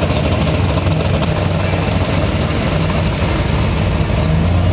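Car engine idling steadily, holding an even low pitch without revving.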